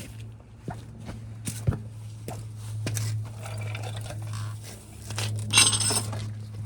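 Metal tools and brake parts being handled: scattered light clicks and knocks, then a louder scraping rattle about five and a half seconds in, over a steady low electrical hum.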